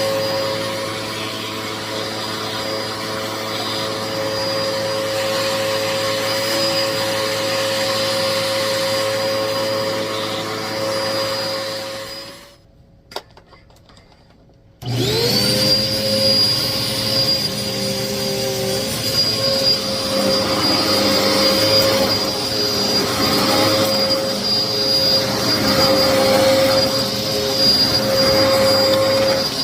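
Hoover vacuum cleaner running steadily with its brushroll, a vacuum the owner says is clogged. About twelve seconds in it is switched off and winds down, a single click follows in the quiet, and a couple of seconds later the motor starts again and whines quickly back up to speed.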